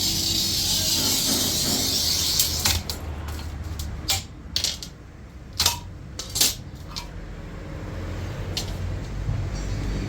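A steady hiss for the first couple of seconds, then a string of about a dozen sharp clinks and taps of small hard objects over some four seconds.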